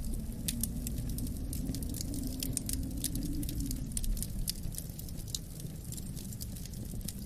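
Wood fire crackling with frequent small irregular pops, over a steady low wind rumble with a faint wavering howl.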